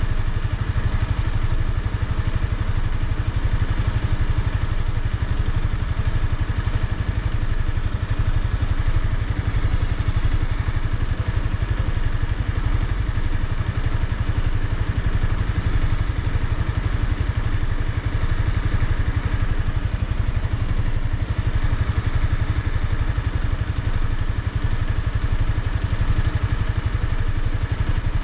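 Honda CBR300R's single-cylinder engine running steadily, with no clear revving up or down.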